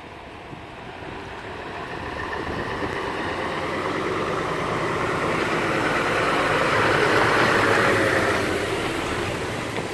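Isuzu Giga 6x4 dump truck's diesel engine pulling up a steep hill, growing steadily louder as it approaches, loudest about seven to eight seconds in, then easing slightly near the end.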